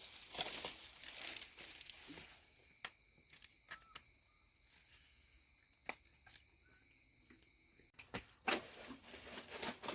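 Dry rustling and crinkling, over the first two seconds and again near the end, with scattered sharp clicks in between, over a steady high-pitched insect drone.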